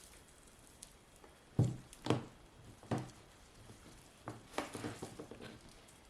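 Hands working potting soil while repotting a plant: three dull thumps, then a run of small crumbly rustles about four seconds in.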